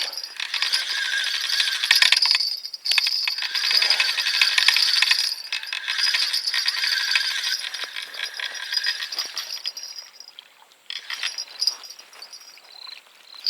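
Spinning reel being cranked to bring in a hooked fish: a metallic whirring with dense fine ticking. It breaks off briefly twice and dies away about two-thirds of the way through.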